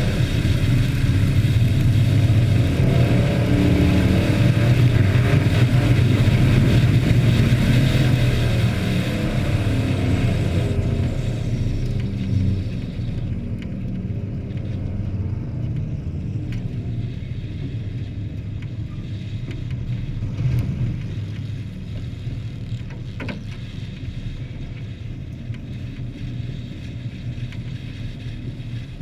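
Hobby stock race trucks' engines running loud for about the first ten seconds, then fading away into a quieter, lower engine rumble.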